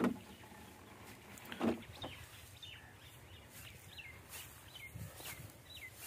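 A small bird calling repeatedly in short, high, downward-sliding chirps, about two a second, over faint outdoor background. Two short low sounds, about a second and a half apart, come near the start.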